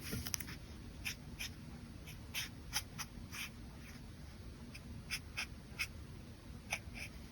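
Brush pen strokes on paper: an irregular run of short, quick strokes with pauses between them.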